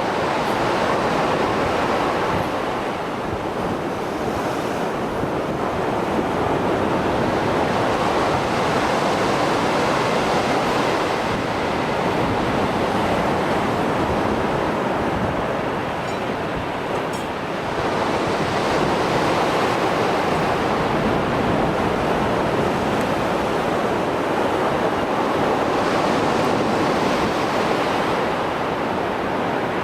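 Mediterranean sea waves after a storm, surf breaking and washing in a continuous rush that swells and eases every several seconds.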